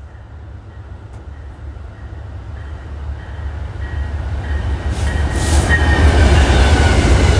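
An Amtrak passenger train hauled by two GE P42DC diesel-electric locomotives approaching. The low diesel rumble grows steadily louder, and a thin high squeal joins from about four seconds in.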